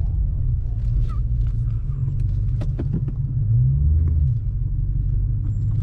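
Low, steady engine rumble from a BMW M5 Competition's twin-turbo V8, running while the car sits stopped or creeps along, with a brief swell and rise in pitch about three and a half seconds in.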